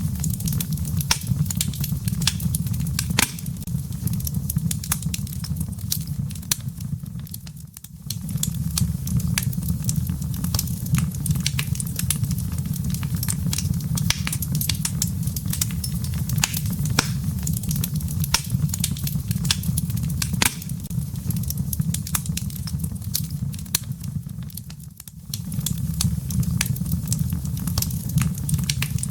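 Wood fire burning in a fireplace: a steady low rumble of flames with frequent sharp crackles and pops from the burning firewood. The sound briefly fades and returns twice.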